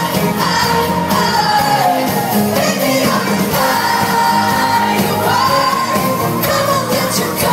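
Live pop music in a large hall: sustained, gliding sung notes over a full band, with shouts from the crowd, recorded from among the audience.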